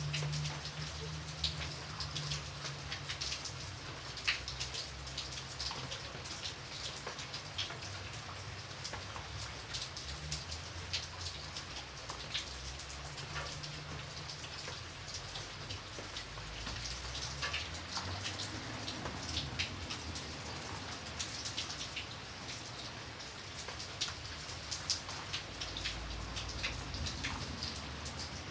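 Steady rain, with many separate drops ticking sharply on a hard surface over a soft hiss, and a low rumble underneath that swells and fades.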